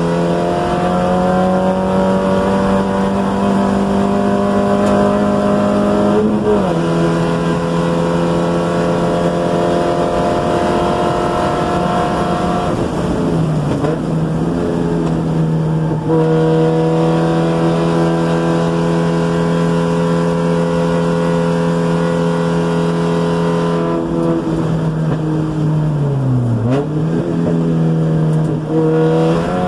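1990 Spec Miata's 1.6-litre four-cylinder engine at full throttle, heard from inside the cabin. It climbs steadily in pitch with an upshift about six seconds in, then falls away under braking near the end, with two quick jumps in pitch as the driver blips the throttle on downshifts.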